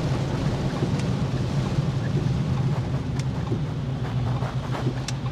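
Ford Mustang GT's Coyote 5.0 V8 droning steadily at cruise, over an even hiss of tyres and spray on the wet road.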